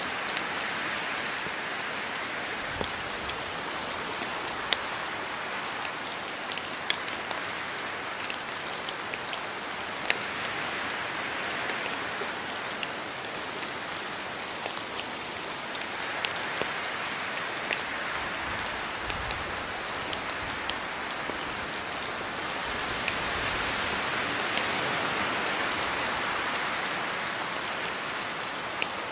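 Steady rain falling, a continuous hiss with scattered sharp drop impacts on surfaces; the rain grows a little heavier about three-quarters of the way through.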